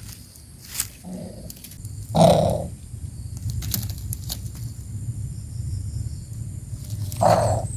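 Two short harsh calls from a coucal nestling, about five seconds apart, over a steady low rumble.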